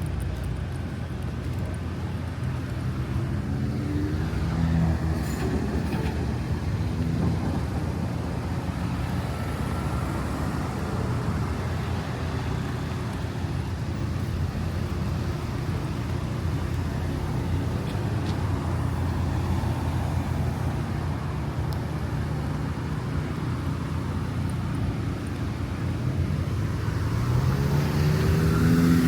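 Road traffic: cars and other vehicles running and passing on the street, with a steady rumble. Near the end one vehicle speeds up, its engine note rising.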